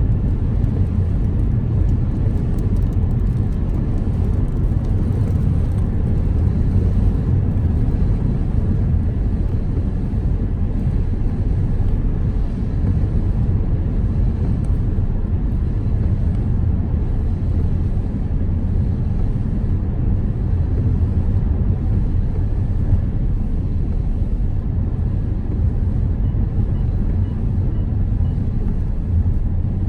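Car driving in rain: a steady low rumble of road and engine noise, with a faint patter of rain over it.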